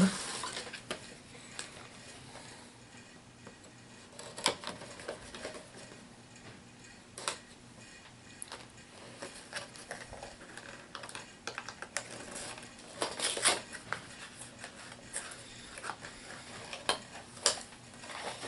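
Scattered clicks and crackles of a plastic HeroClix booster pack being opened and the miniature figures inside being handled, with a few louder clacks.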